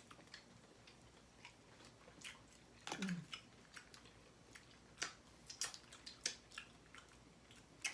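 Close-miked eating: mouth chewing and biting into food, with irregular sharp clicks and smacks. The food is most likely crispy fried chicken.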